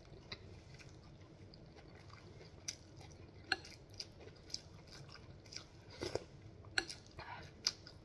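Close-up mouth sounds of a person chewing food: wet smacks and small clicks at an irregular pace, a few louder ones after the middle and near the end.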